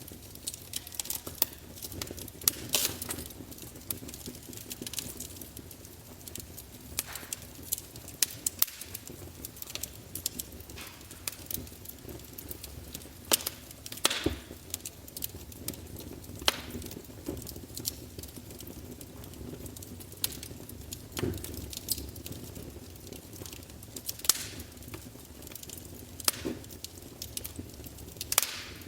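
Wood fire burning in a fireplace: irregular sharp crackles and pops, a few of them much louder, over a soft steady background of burning logs.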